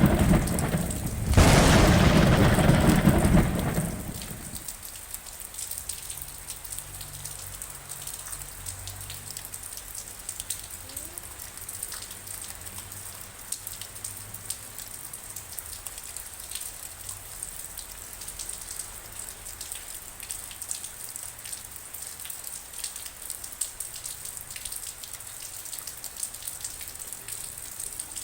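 Rain falling steadily, with a loud rumble of thunder over the first few seconds that dies away about four seconds in, leaving the patter and dripping of rain.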